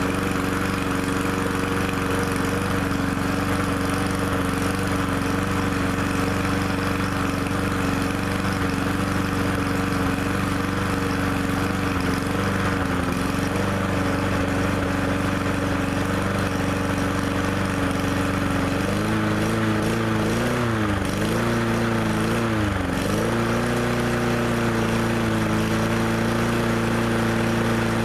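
MTD push lawnmower's small engine running steadily at idle. It is being left to run until it burns off the gas in the carburetor. About two-thirds of the way through its speed sags and recovers twice, then it settles and runs on.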